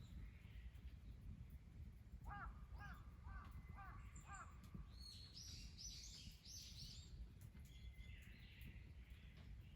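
Faint wild birds calling over a low steady rumble. A couple of seconds in, one bird gives a run of five quick, arched call notes; midway, higher chirping notes follow.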